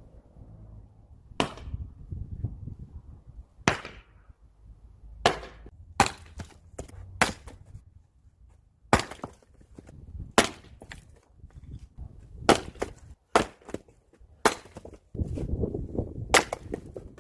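Firewood being chopped: a dozen or so sharp wooden strikes a second or two apart, some followed closely by quicker, lighter knocks.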